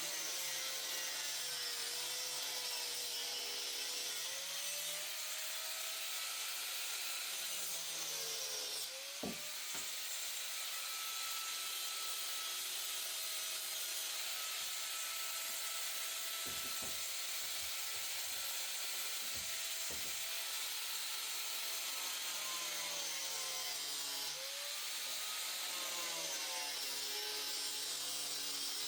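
Cut-off wheel grinding through a plastic shroud lip, a steady gritty hiss over the tool's motor whine, which sags in pitch as the wheel bites and picks back up several times. A few short knocks come in the middle.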